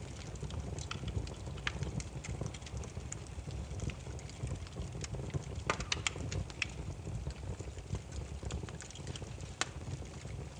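Wood campfire crackling: irregular sharp pops and snaps, a few louder ones around the middle, over a low steady rumble of the burning logs.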